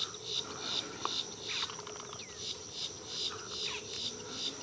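Boat-tailed grackles calling, with short sliding whistles and brief notes, over a steady high chirping that pulses about three times a second.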